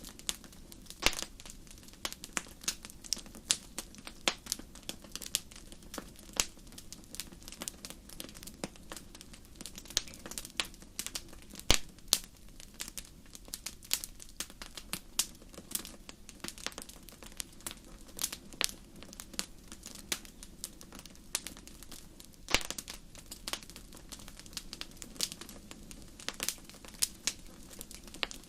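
Wood fire crackling in a fireplace: irregular sharp pops and snaps over a steady low hiss of burning, with a few louder pops scattered through.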